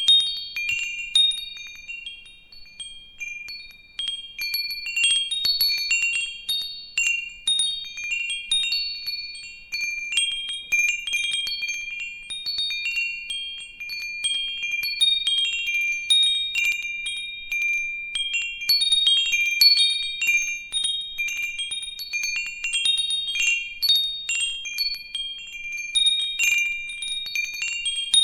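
Wind chimes ringing, their metal tubes struck at random by the wind: a few high, clear pitches that ring on and overlap, in irregular clusters that swell and ease off.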